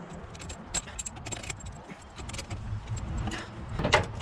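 Metal clicks and clinks of a hand wrench working a fitting on a car engine, a quick clatter every so often, with a louder clank near the end.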